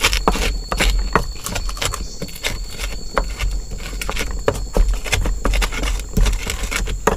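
A pestle pounding and grinding garlic and shallots with a little salt in a mortar (Indonesian cobek and ulekan). It makes irregular knocks and scrapes, several each second.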